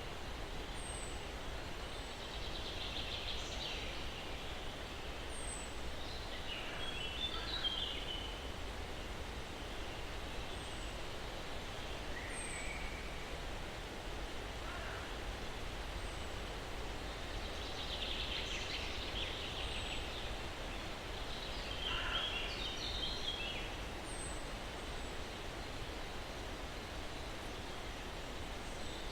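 Steady breeze hiss through pine trees with a low rumble underneath, and birds calling: short trilling calls every few seconds, with faint high chirps in between.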